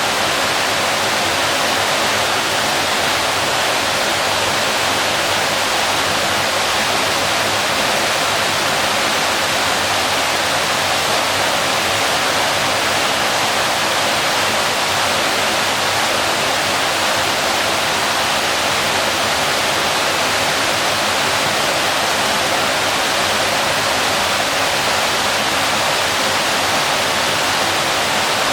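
Waterfall: water falling and splashing in a steady, even rush, with no breaks.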